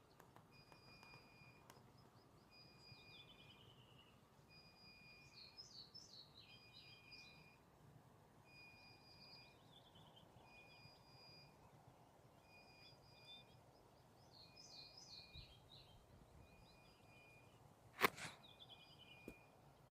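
Faint songbird song: a bird repeats a phrase of held high whistles at two pitches followed by quick falling trills, again and again. A single sharp click about eighteen seconds in.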